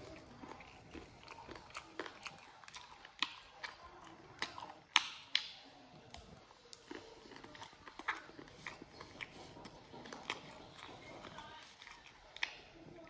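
Close-up eating sounds: a person biting and chewing cooked chicken feet, with many short sharp clicks of lips and teeth, the loudest about five seconds in.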